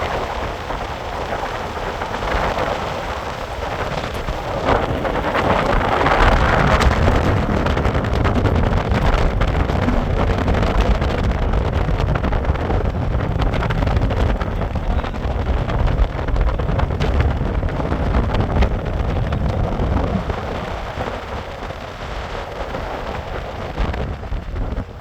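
Loud, continuous rushing noise with a heavy low rumble of wind buffeting the microphone. The noise swells a few seconds in and eases off toward the end.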